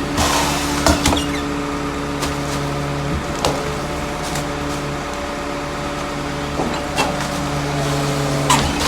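Rear-loader garbage truck running steadily with a constant engine hum, its low tone dropping away for a few seconds mid-way, broken by a handful of sharp knocks and clanks.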